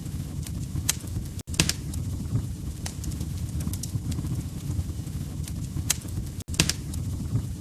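Log fire crackling in a fireplace: a steady low rumble of burning with scattered sharp pops and snaps. The sound cuts out for an instant twice, about five seconds apart, each time followed by the loudest pop.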